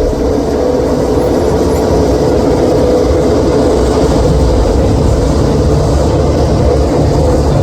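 MotoGP motorcycle engines heard from the grandstand as a loud, steady mass of engine noise with no single bike passing clearly.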